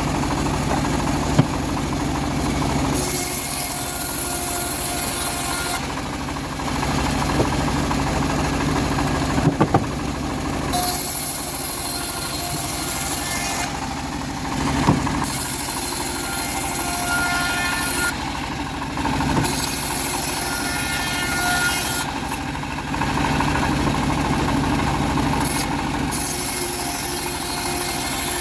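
Home-built bandsaw mill running on its engine, its blade sawing through a teak log, with a high hissing that comes and goes in stretches of two to three seconds over a steady engine drone.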